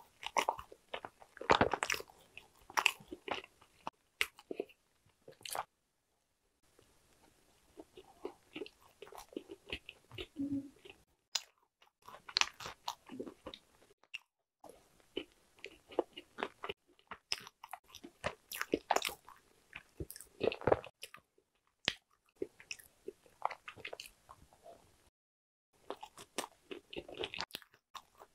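Close-miked chewing of Korean walnut cake (hodu-gwaja): the crisp shell and whole walnut pieces crunching in irregular bursts, with a few short pauses.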